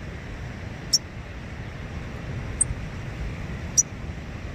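A steady low outdoor rumble, with a short high-pitched chirp three times, about every second and a quarter.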